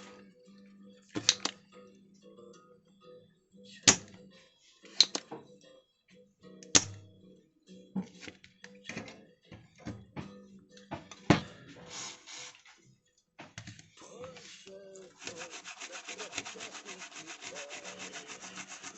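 Scraping and rubbing with sharp clicks, from hand tools working on a mobile phone's casing and parts. Near the end this gives way to a fast, even buzzing rattle.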